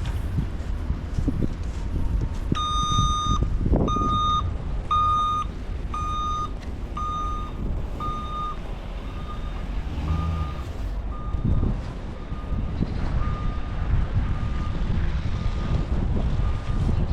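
A vehicle's reversing alarm beeping at a steady single pitch, about once a second, starting a few seconds in and growing fainter about halfway through, over a constant low rumble of street noise.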